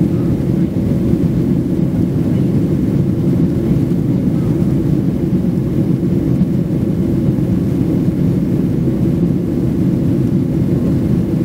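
Steady low rumble of an airliner's cabin noise in flight: jet engines and airflow heard from inside the passenger cabin, even and unchanging.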